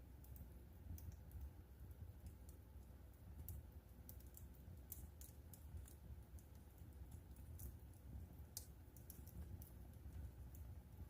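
Wood fire crackling in a fireplace: faint, irregular sharp pops and snaps, several a second, over a low steady rumble.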